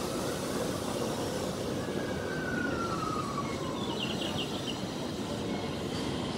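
Electric commuter train rolling slowly along the platform, with a steady running rumble. A whine falls in pitch about two seconds in, and a few brief high wheel squeals come about four seconds in.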